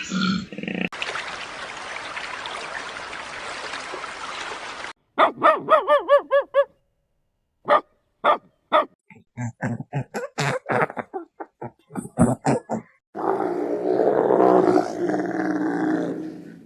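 Dog barking and yipping: a quick run of short rising-and-falling yelps, then a string of separate short barks, with other short animal-sound clips cut in before and after.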